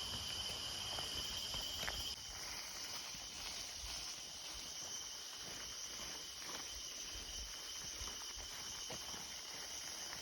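Forest insects calling in a steady high-pitched chorus of several constant tones. About two seconds in the lowest tone stops and the chorus gets a little quieter, with a few faint ticks throughout.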